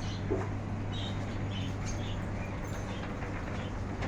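Small caged birds chirping with short, high, scattered calls, over a steady low hum.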